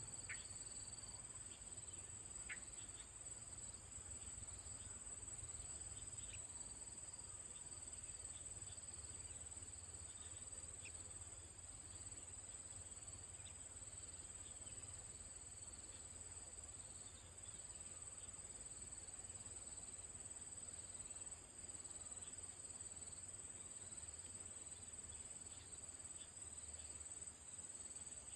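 Faint, steady high-pitched insect chorus, a continuous trill of crickets or similar insects, with a few brief faint chirps scattered through it.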